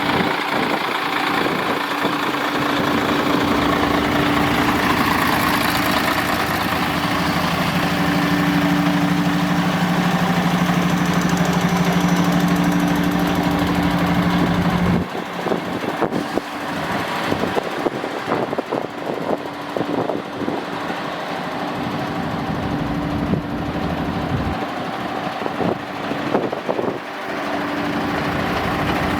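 Diesel engine of a 2001 Mercedes-Benz Actros 3235 concrete mixer truck idling, a steady hum with a clear pitch. About halfway through it gets quieter and is broken by irregular knocks and clatters for several seconds, then steady running returns near the end.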